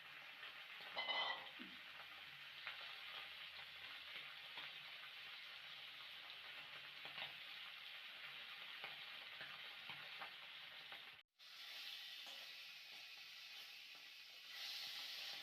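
Food sizzling steadily as it fries in hot oil in a pan, with occasional light clicks of stirring. The sound drops out for an instant about eleven seconds in.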